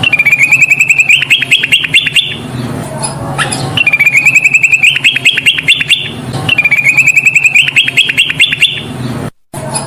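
Kutilang emas bulbul singing loudly in repeated phrases, three in all: each a held, slightly wavering whistle followed by a quick run of sharp chattering notes, about every three seconds. A low hum runs underneath, and the sound cuts out for a moment just before the end.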